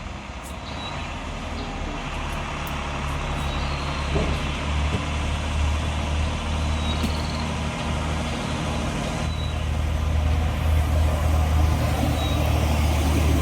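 Heavy truck's diesel engine running steadily, growing gradually louder as the truck comes nearer.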